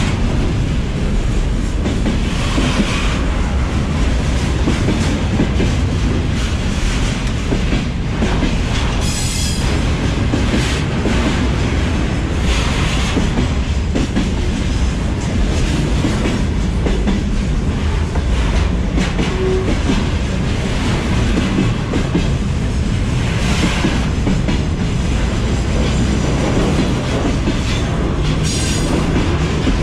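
Freight wagons rolling over the rails directly above the track, a loud steady rumble with wheels clattering over the rails. Brief high-pitched wheel squeals come about nine seconds in and again near the end.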